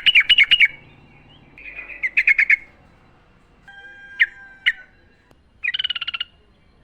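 Yellow-vented bulbul (trucukan) singing in short bursts of quick, bubbling chattering notes, four phrases with pauses between. One phrase has two sharp notes over steady whistled tones.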